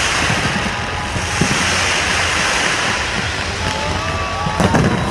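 Many fireworks going off at once: a dense, steady crackle with low thuds and a few faint whistles, and a sharper bang near the end.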